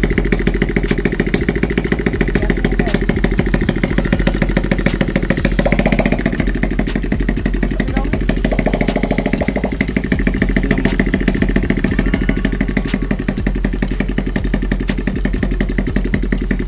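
Motorcycle engine running at idle with no exhaust pipe fitted: a loud, steady, rapid string of raw firing pulses straight from the open exhaust port.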